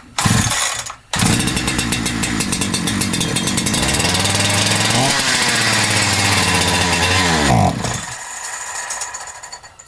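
Holzfforma G372XP two-stroke chainsaw, started on choke with fuel dribbled into the intake, fires on the first pull about a second in and runs for roughly six seconds. Its pitch rises briefly in the middle, then sags and the engine dies near the end: it is running lean and starving for fuel.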